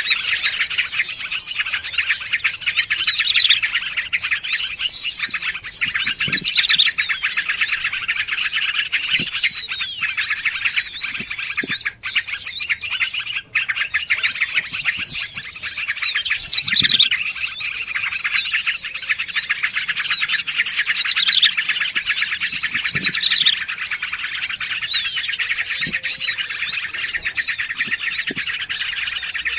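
Dense, unbroken chorus of small songbirds: many overlapping quick chirps, twitters and trills from several birds at once. It is a mixed bird-lure (pikat) call track of yellow-vented bulbul (trucukan), prinia (prenjak), sirtu and sogon calls.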